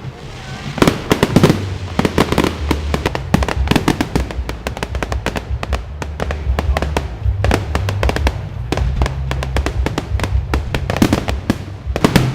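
A fireworks display: a dense run of bangs and crackles, many going off close together. Music with a steady low bass line plays underneath.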